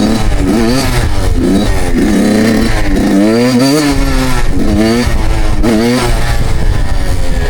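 Suzuki two-stroke dirt bike engine revving, its pitch climbing and dropping back again and again, about once a second.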